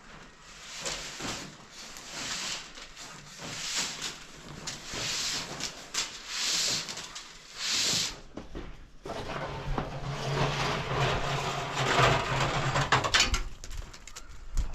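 Repeated scraping or rubbing strokes, roughly one a second, then a steady low hum with scraping over it for a few seconds near the end.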